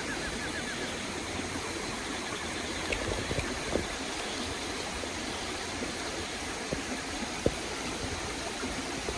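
Running water of a stream, a steady even rush, with a few faint clicks over it.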